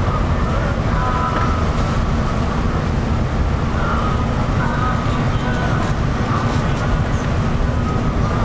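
Steady low rumble of a Scania K360i coach driving at speed, heard from inside the passenger cabin.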